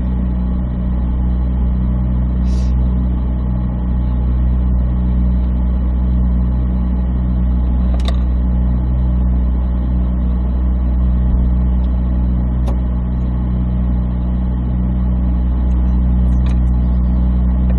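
Chevrolet Corvette V8 idling steadily in Park, heard from inside the car, with a few brief faint clicks.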